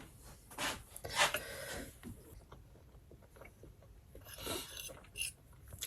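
Faint rustling and rubbing handling noises, with a few short scrapes and light clicks.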